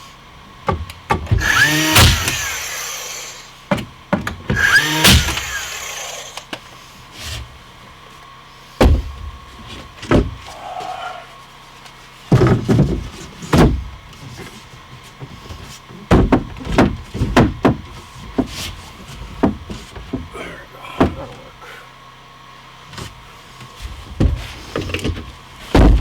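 Carpentry handling: boards and tools knocked and set down in a long string of clunks and thuds, with two louder, noisier bursts of about a second each near the start.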